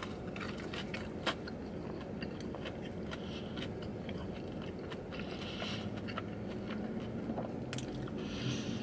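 A person biting into and chewing a breaded fried chicken sandwich dressed in spicy sauce, with many small scattered clicks from the mouth and food.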